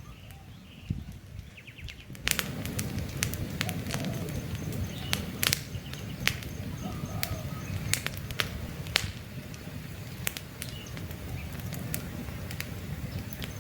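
Campfire crackling, with frequent sharp pops and snaps over the low rush of the burning wood, which comes in suddenly louder about two seconds in. Faint bird chirps sound now and then behind it.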